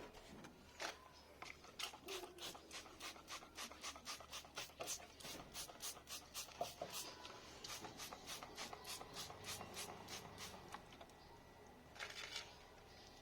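Rhythmic rubbing strokes by hand, about three a second for roughly ten seconds, then a short burst near the end.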